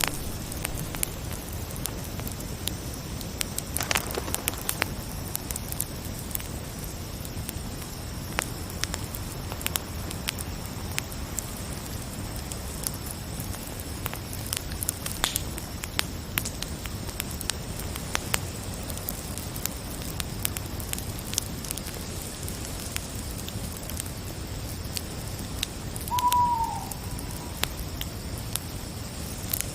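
Campfire crackling, with frequent sharp pops over a steady hiss, beneath a steady high-pitched chorus of crickets. About 26 seconds in, a single short call from a night bird falls in pitch.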